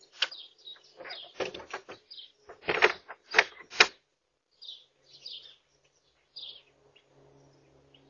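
Short high bird chirps outside, with a series of sharp knocks and clatters in the first half, the loudest about three to four seconds in.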